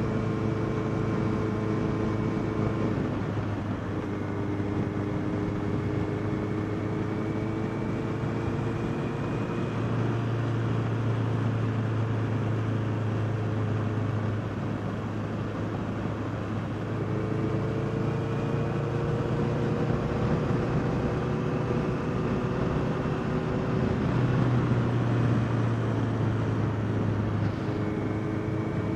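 Honda CBR650R's inline-four engine pulling on the move, over a steady rush of wind and road noise. Its note drops three times, about 3.5 s, 15 s and 27.5 s in, and climbs slowly again after each drop.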